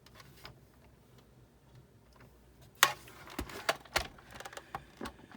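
Clicks and knocks of a die-cutting machine's parts and tools being handled during disassembly: faint ticks at first, then a run of sharper knocks from about halfway, the first one the loudest.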